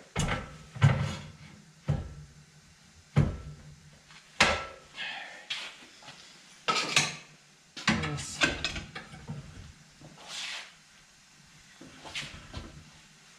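Hand tire-changing tools clanking and knocking against a steel wheel rim while a tire is worked off the wheel: about ten separate irregular knocks, some with a brief scrape or ring.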